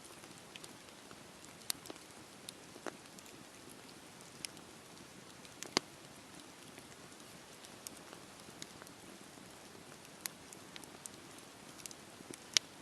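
Campfire burning: a steady soft hiss with irregular sharp crackles and pops, the loudest pops about halfway through and near the end.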